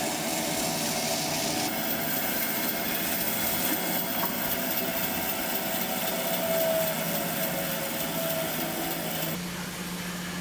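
A woodworking power tool's motor running steadily with a wavering whine, stopping about nine seconds in.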